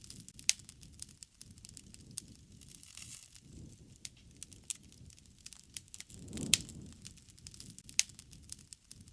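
Campfire crackling, with sharp pops of burning wood scattered through and a soft low rumble of flame that swells twice. The loudest pops come about six and a half seconds and eight seconds in.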